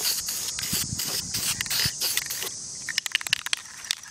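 Aerosol can of Krylon Camouflage ultra flat spray paint hissing in a quick series of short sprays, stopping about two and a half seconds in. A run of light clicks follows near the end.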